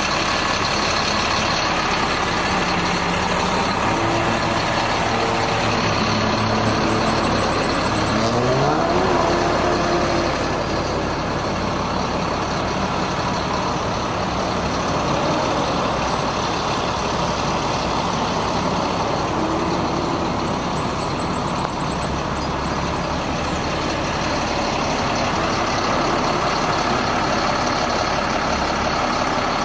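The Freightliner M2's Caterpillar C7 diesel engine running steadily. About eight to nine seconds in, its pitch glides quickly upward.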